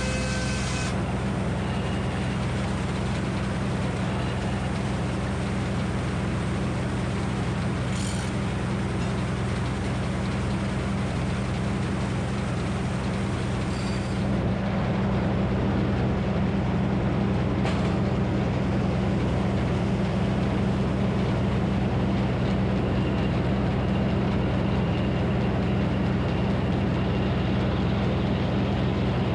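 Minneapolis Moline HEB 605 cubic inch engine powering a Frick circular sawmill, running at a steady speed, with a few short sharp knocks; it gets a little louder about halfway through.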